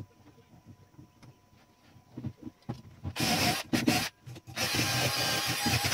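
Light handling clicks, then a small power tool starts about three seconds in, runs briefly, stops for a moment and starts again.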